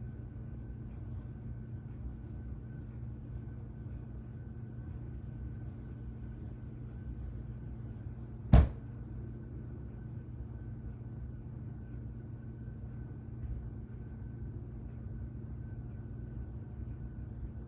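A steady low hum, with a single sharp thump about eight and a half seconds in.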